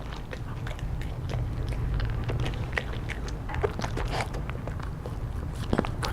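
A dog chewing and biting a hard treat, with irregular crunches and crackles and a few louder bites near the end. A steady low rumble runs underneath.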